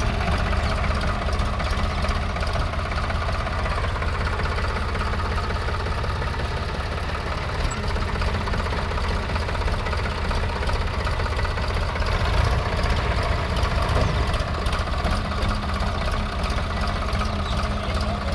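Tractor's diesel engine running steadily, with a rapid, even chugging pulse.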